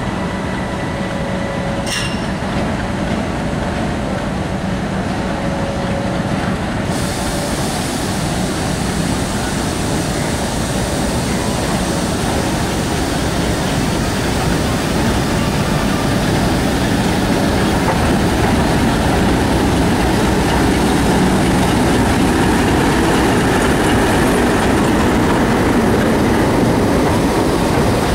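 Diesel locomotive running as it hauls a rake of passenger coaches slowly into the platform, growing gradually louder as it approaches, then the coaches rolling close past on the rails.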